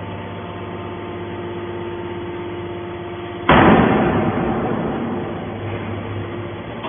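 Hydraulic can baler's power unit running with a steady hum. About halfway through, a sudden loud crash of noise from the machine fades over a second or two while the hum goes on.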